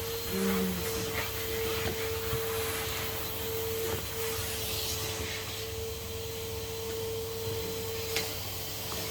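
Henry HVR200 620 W vacuum cleaner running with a steady whine, with a few brief knocks and scrapes.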